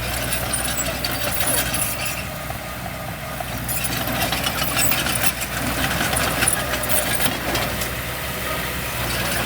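Diesel engine of heavy construction machinery running steadily, with occasional short clanks.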